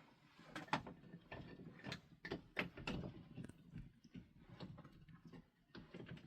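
A run of irregular sharp clicks and knocks, several close together between about one and three seconds in, then more spread out.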